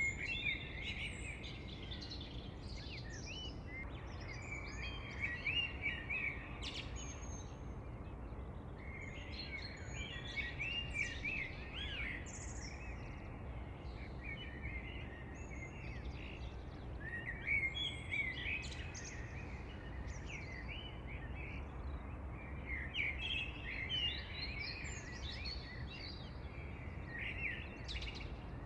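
Songbirds singing in bursts of rapid, high chirping phrases that recur every few seconds, over a steady low background rush.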